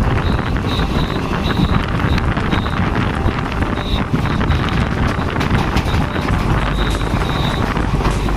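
A train running on the line, with rumble and a dense rattle of clicks from wheels on the track, and wind buffeting the microphone.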